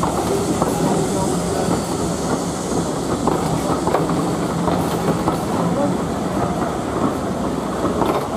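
Steam-hauled train rolling along the track, its wheels clattering steadily over the rail joints, with a steady low hum underneath.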